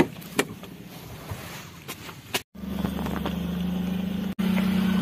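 A few sharp clicks and knocks, then, about halfway through, a Suzuki Alto's small three-cylinder petrol engine running steadily at low speed as the hatchback moves off on a dirt track.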